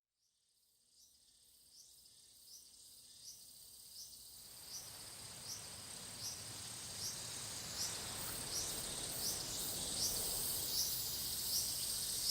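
Summer-night insect chorus fading in from silence: a steady high whine with a regular chirp about every three-quarters of a second, growing louder throughout.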